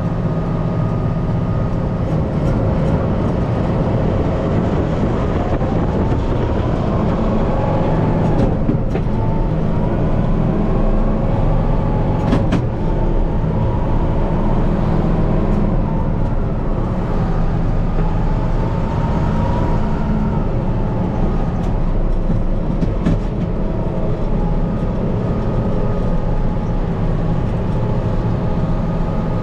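Kubota M5-091 tractor's four-cylinder diesel engine running steadily, heard from inside the cab, with its pitch rising and falling several times as the revs change. A few sharp knocks break in, once near the middle and once later.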